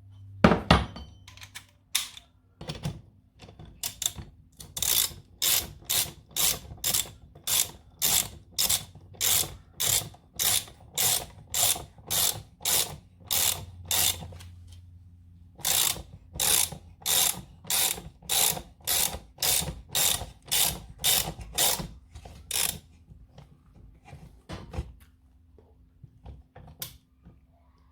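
Socket ratchet being worked to tighten the bolts of a new engine mount: about two ratcheting back-swings a second, a short pause about halfway, then a few slower strokes near the end.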